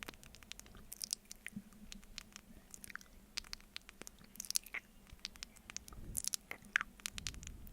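Close-miked mouth sounds of eating honey off a spoon: an irregular run of quick, wet clicks and smacks, several of them with a short falling slide.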